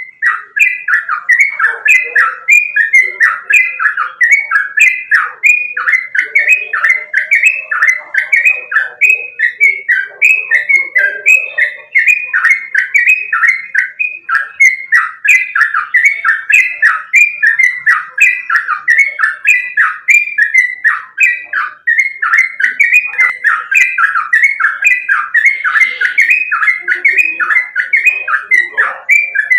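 Yellow-vented bulbul (trucukan) calling loudly in a fast, unbroken run of short, falling notes, about two to three a second, as used in recordings to prompt captive bulbuls to sing.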